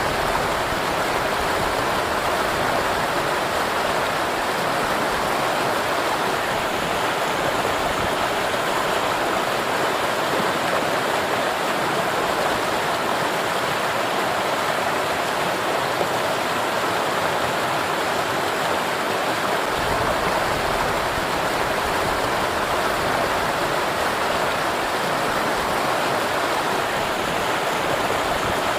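Steady rushing of falling water from a waterfall, an even, unbroken roar.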